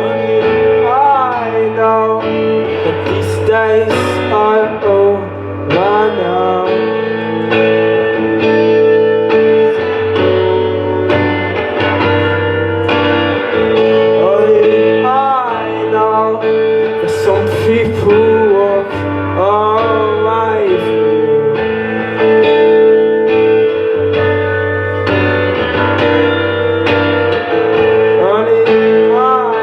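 Live guitar-band music: guitar playing with a melody that bends and wavers in pitch over held chords, with regular sharp drum-like strokes.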